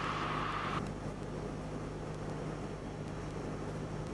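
Cessna 172L's four-cylinder Lycoming engine and propeller droning steadily in flight. A band of hiss over the drone cuts off just under a second in.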